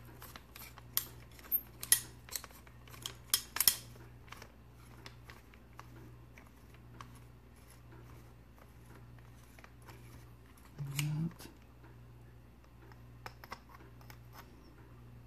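Small metal parts of a lightsaber hilt clicking and scraping as its top section is unscrewed and handled: a quick run of sharp clicks over the first four seconds, then scattered ticks, with a few more clicks near the end.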